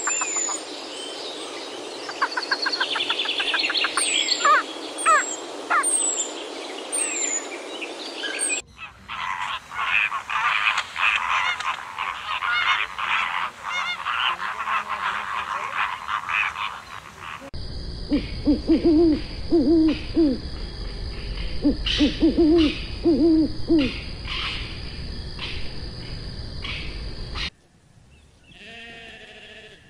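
A run of bird calls in three parts. First, small birds chirp and trill with quick falling notes. Next comes a dense, continuous honking chatter from a flock of flamingos, and then low hooting calls in short groups of two or three over a thin steady whine.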